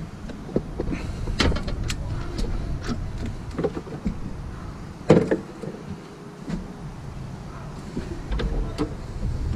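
Scattered metallic clicks and knocks, like hand tools and parts being handled, with the loudest knock about five seconds in, over a low rumble.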